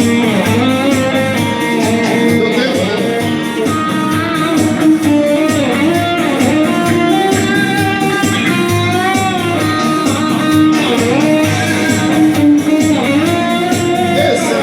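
Instrumental break in a pop song: an electric guitar plays a gliding melody over a steady beat with bass and drums.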